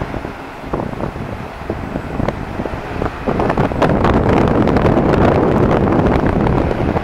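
Wind buffeting the microphone as a rough, crackling rumble, which gets much stronger about three seconds in.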